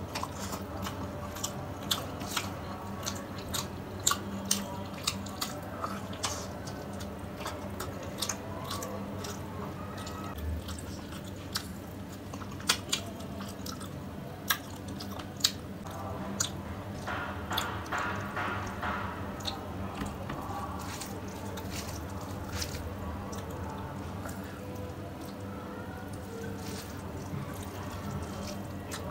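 Close-up eating sounds: chewing and wet lip-smacking of rice and fish curry, with squishes of fingers mixing the curried rice by hand. Many short sharp clicks are scattered throughout over a steady low hum.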